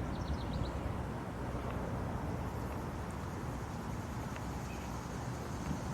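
Outdoor ambience: a steady low rumble, with a quick run of about five high bird chirps just after the start.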